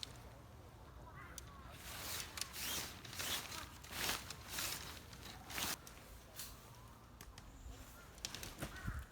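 Irregular rustling with light clicks and knocks, a handful of short noisy strokes close together around the middle.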